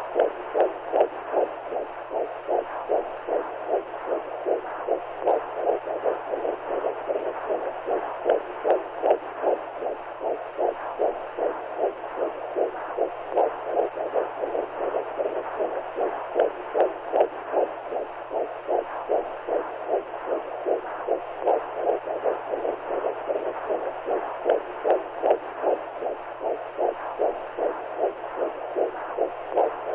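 Womb sound: a rhythmic whooshing pulse, like a heartbeat heard from inside the belly, repeating evenly over a steady low hum.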